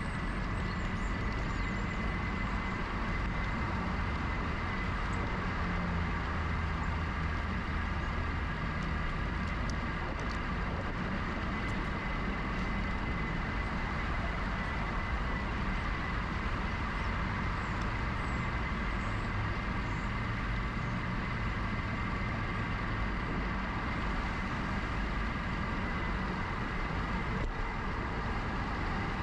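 Riding noise from a moving GoCycle GX electric bike: steady rumble of tyres and wind, with a steady high whine.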